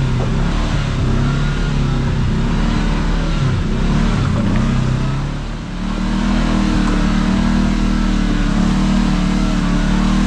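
Kawasaki KRX side-by-side's parallel-twin engine running on a trail, its speed rising and falling, easing off briefly a little past halfway, then holding a steady note.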